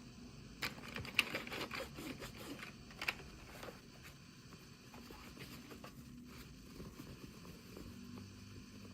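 Hands unboxing small toy packaging: a quick flurry of plastic crinkles and clicks about a second in, lasting a few seconds, then faint handling sounds.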